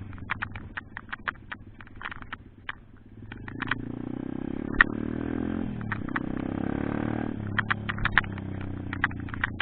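Pit bike's single-cylinder engine running low with many sharp irregular clicks. For a few seconds in the middle it comes up louder and smoother, its pitch falling off, then drops back to the low note and clicking.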